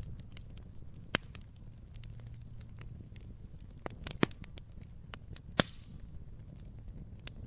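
Wood fire crackling: scattered small snaps and a few sharp pops, the loudest a little past the middle, over a low steady rumble.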